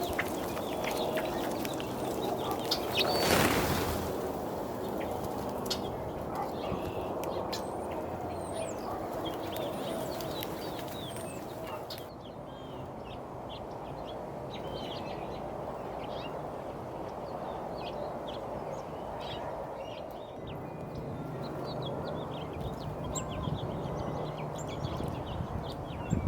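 Small wild birds chirping on and off over a steady outdoor background. A brief loud rush of noise comes about three seconds in, and a low steady hum joins near the end.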